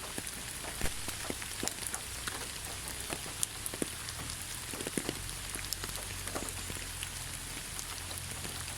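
Steady rain falling on leaves: an even hiss with many scattered individual drop taps at irregular intervals.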